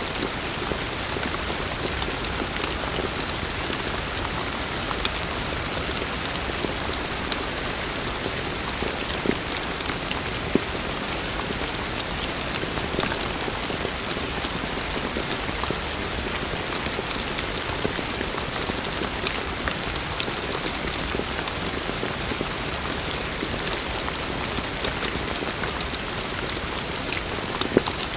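Heavy rain falling steadily, a dense even hiss with scattered sharper drop ticks; a couple of louder single drop hits stand out, one about ten seconds in and one near the end.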